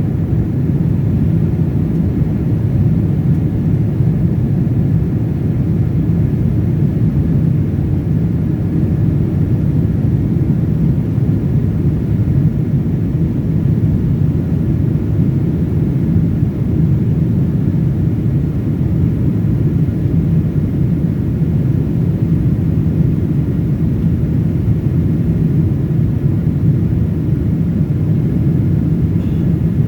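Steady cabin noise of a passenger airplane in flight: a constant low rumble of engines and rushing air that does not change.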